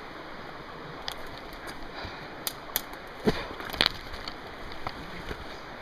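Footsteps through undergrowth: scattered twig snaps and crunches, the loudest a little under four seconds in, over a steady rushing hiss.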